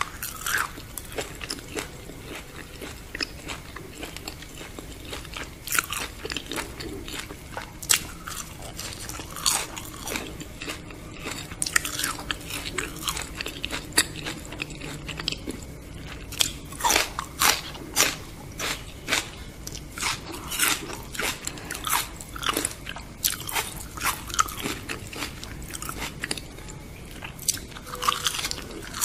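Close-miked eating: crisp crunching bites and chewing of crunchy food, in quick runs of sharp cracks that get busier in the second half.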